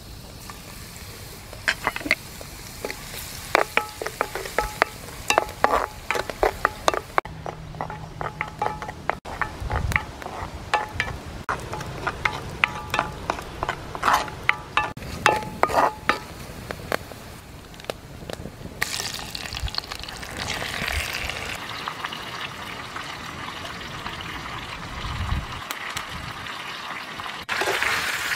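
Garlic and then squid frying in hot oil in a clay pot over a wood fire. For about the first half there is dense crackling and popping from spattering oil; from about two-thirds of the way through it settles into a steady sizzle.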